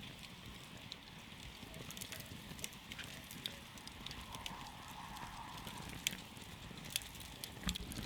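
Wood campfire crackling: sharp, irregular pops and snaps over a low, steady rumble.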